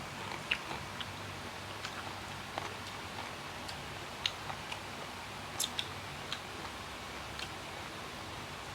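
A person chewing a spicy sour mango salad, with scattered small crunches and wet mouth clicks every second or so.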